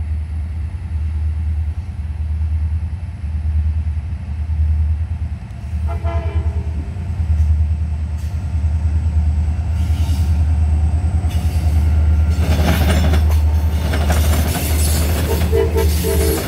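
Freight train's diesel locomotives approaching and passing over a rail diamond crossing, over a steady low rumble. The horn gives a short blast about six seconds in. Rail and wheel noise builds from about ten seconds and is loudest as the locomotives cross the diamond, and the horn sounds again in short blasts near the end.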